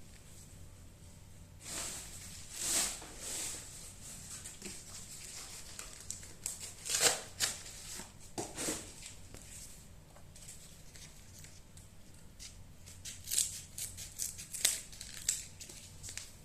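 Packing material rustling and crinkling as it is handled, in scattered clusters of short, sharp crackles.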